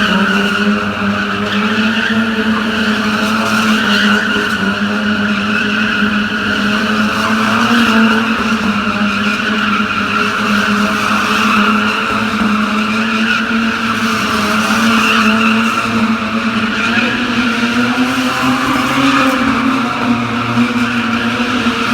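Car engine held at high revs while its tyres spin and squeal continuously, as in a burnout or donuts with traction control off; the engine pitch creeps up slightly near the end.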